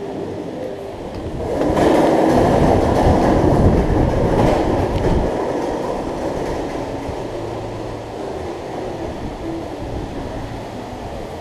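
Rushing, splashing water of a waterfall pouring into a pool, swelling about two seconds in and then easing off.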